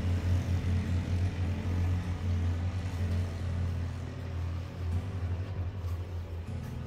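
Motorcycle engine running steadily while riding, a low hum that eases a little about four to five seconds in.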